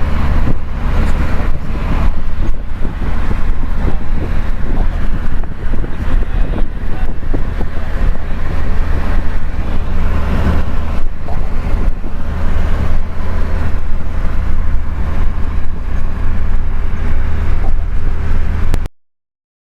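Steady, loud low rumble and wind buffeting the microphone on a boat under way on the river. It cuts off abruptly near the end.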